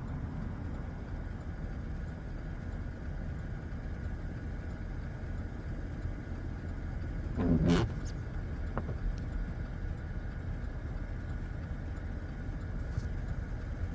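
Vehicle engine idling steadily, heard as a low rumble from inside the cab, with one brief louder sound about halfway through.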